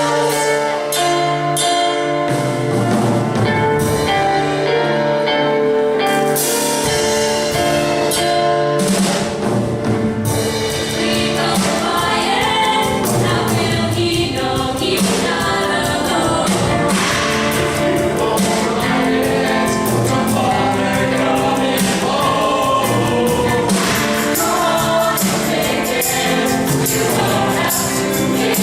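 Vocal group singing in close harmony over instrumental backing; bass comes in a few seconds in and the sound fills out with a steady beat.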